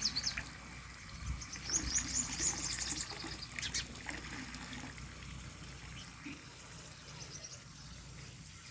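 Small birds chirping in quick runs of high notes, busiest in the first few seconds and then thinning out.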